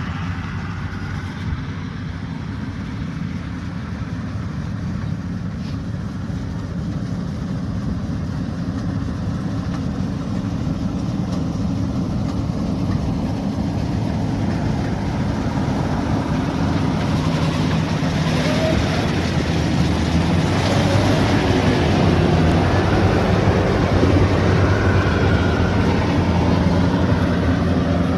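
Rice combine harvester's diesel engine running steadily, growing gradually louder, with more high-pitched machinery noise joining about halfway through.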